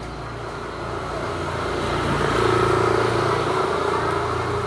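A motor vehicle passing by on the road, its engine and tyre noise growing louder to a peak about halfway through and then fading.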